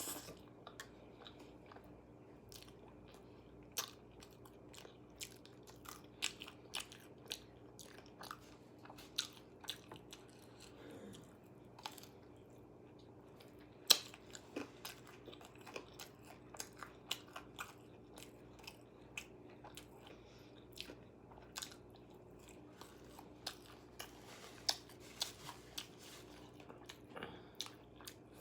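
Close-up chewing and biting into crispy KFC food, with many irregular sharp crunches and crackles and a few louder bites.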